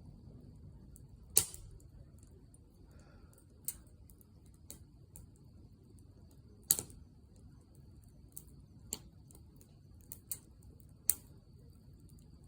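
Wood burning in a campfire, crackling over a low steady hiss, with sharp pops from the firewood: three loud cracks, about a second in, near the middle and near the end, and smaller snaps between them.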